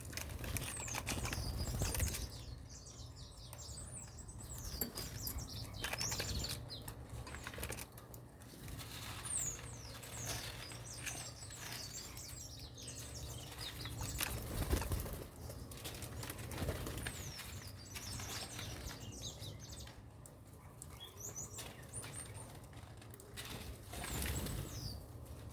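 Small birds chirping with many short, high-pitched calls, mixed with wing flaps and scuffling clicks.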